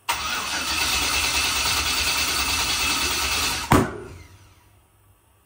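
Start attempt on a turbocharged 5.3 LS V8: the engine turns over on the starter for nearly four seconds and ends in one sharp bang, after which the sound dies away over about a second. The engine is not starting properly, a fault the owner traces to a failing cam sensor giving a bad sync signal.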